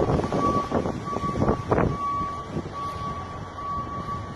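A vehicle's reversing alarm beeping about once a second over steady engine noise, with a couple of knocks near the middle.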